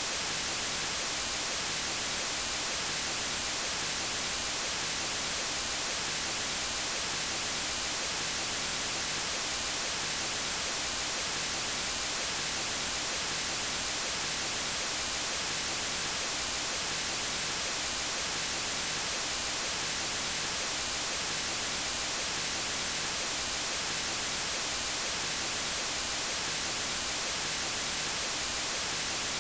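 Steady white noise: an unbroken, even hiss with most of its energy in the highs.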